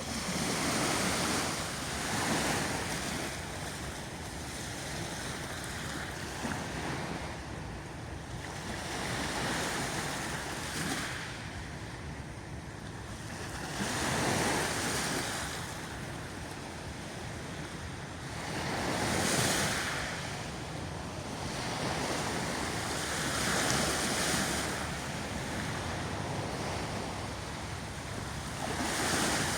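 Sea waves breaking on the shore, a louder surge of surf every four to five seconds over a steady wash.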